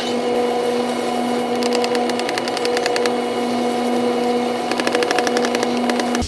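A power tool's motor running steadily at one pitch, with two short spells of rapid ticking, then cutting off suddenly near the end.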